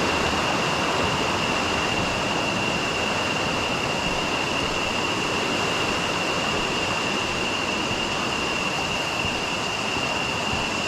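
Steady rushing of river water or a waterfall, with a constant high-pitched tone held over it.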